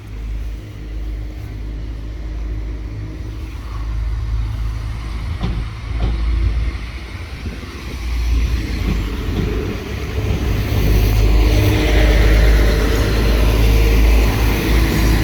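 A vehicle running with a steady low rumble, which grows louder from about halfway along with a rising hiss, as if it is approaching.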